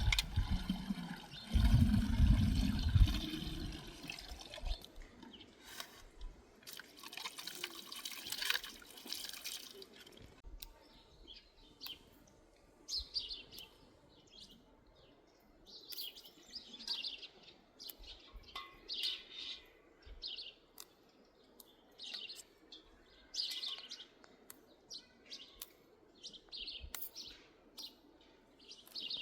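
For about ten seconds there is rustling noise with a few low thumps. After that, small birds chirp in short, high, repeated calls, one every second or so.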